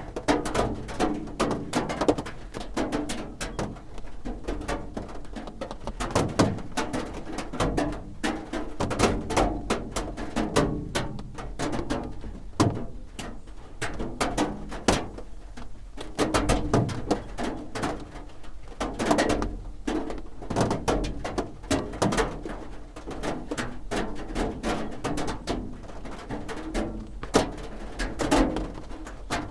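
Raindrops drumming on a roof: a dense, irregular patter of taps with no pause.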